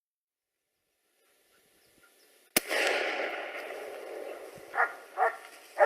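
A single gunshot about two and a half seconds in, its echo rolling away over the next couple of seconds. Near the end a dog barks twice.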